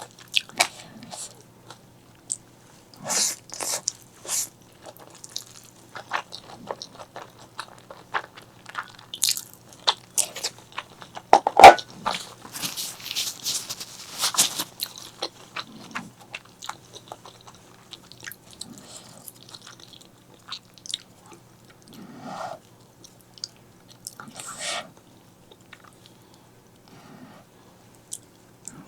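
Close-miked eating sounds: chewing and biting with many short wet mouth clicks and smacks, a busier noisy stretch in the middle, and one louder sharp smack a little before halfway.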